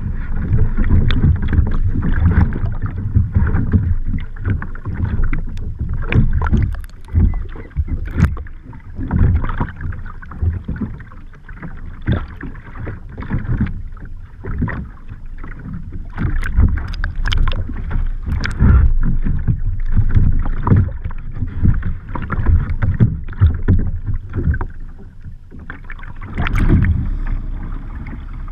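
Kayak in the water during rolling practice: irregular splashing and sloshing from the paddle and hull, with sudden knocks, over a steady low rumble of water against the microphone.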